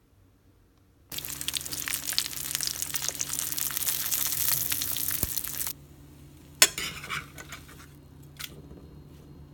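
Food sizzling in a hot frying pan, a dense crackle that starts abruptly about a second in and cuts off suddenly after about four and a half seconds. A single sharp knock follows, then a fainter click.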